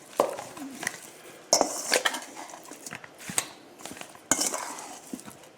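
A metal utensil clinking and scraping against a bowl while seasoned chicken pieces are mixed, with several sharp clatters.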